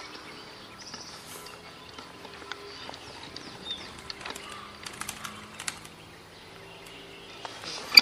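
Forest birds chirping faintly: scattered short high chirps and thin ticks over a quiet background, with a sharp click at the very end.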